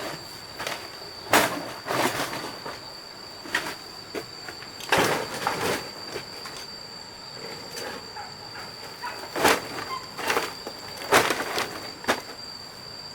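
A series of irregular knocks and scrapes, with a few sharp loud ones about 1.5, 5, 9.5 and 11 seconds in, over a faint steady high tone.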